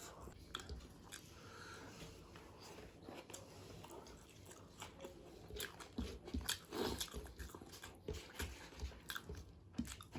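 Close-miked chewing of chicken biryani, wet mouth clicks and smacks with small crunches, busiest about midway.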